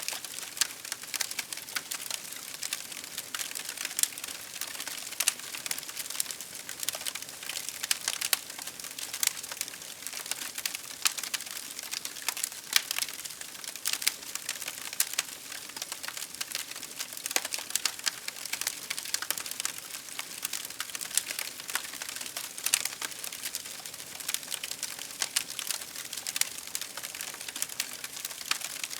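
Wood fire crackling steadily: a continuous hiss with many small, irregular pops and snaps scattered throughout.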